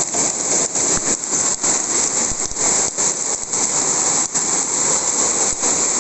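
Hail and heavy rain falling hard, a dense steady rush of many small impacts.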